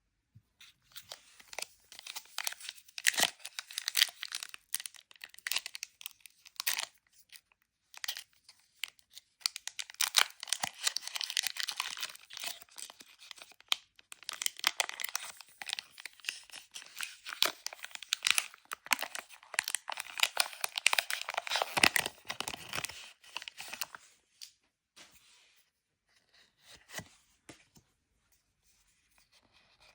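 Plastic and foil packaging from a Pokémon Elite Trainer Box being torn open and crinkled, in several long bouts of crackly tearing. It thins out to a few light rustles after about 24 seconds.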